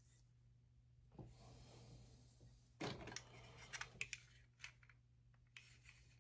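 Faint rubbing and a few light clicks from small model parts being handled, with a short cluster of crisp clicks near the middle.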